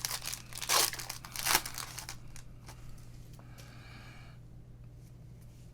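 Foil wrapper of a basketball trading card pack being torn open and crinkled, with two loud rips about a second and a second and a half in and smaller crackles around them.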